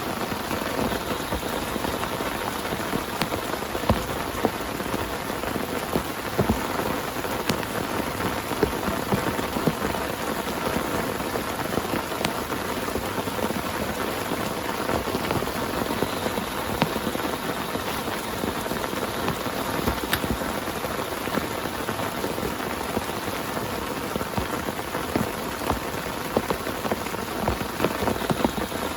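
Heavy rain falling steadily on a tent, with many individual drops striking sharply through the constant patter.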